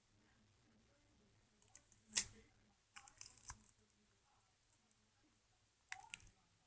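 Regular Scotch tape being handled and torn while taping a fireworks shell back together. It comes as short clusters of crisp clicks and crackles, with the sharpest snap about two seconds in, another cluster a second later and one more near the end.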